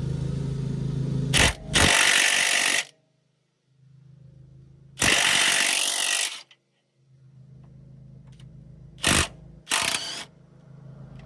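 Cordless impact wrench hammering in several bursts, two long ones of about a second and a half and a few short blips, driving a 17 mm socket through a swivel and extension to break loose a steering rack mounting bolt. A lawn mower hums steadily in the background.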